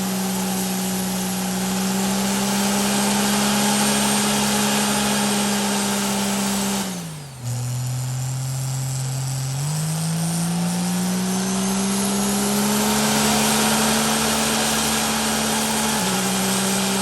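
Truck engine held at high, steady revs over a loud hiss, typical of a burnout. The revs drop sharply about seven seconds in, then climb back up and hold.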